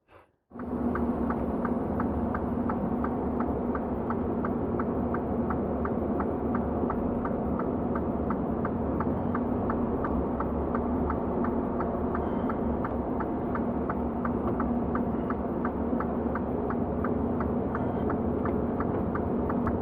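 Truck engine running, heard from inside the cab: a steady drone with a low hum and a fast, even light ticking over it.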